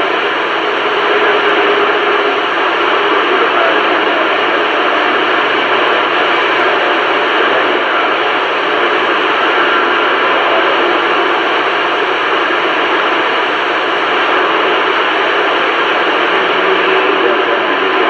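CB radio receiver hissing with steady static on an open channel between transmissions, with faint, wavering traces of distant signals in the noise.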